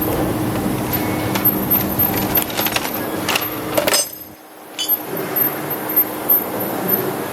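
Grinding-machine wheel spindle running with a steady hum, scattered light clicks and rattles over it. The sound drops away briefly about four seconds in, then picks up again.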